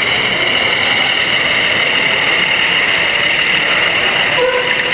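Model train running on an exhibition layout: a steady high whine over a steady rushing noise.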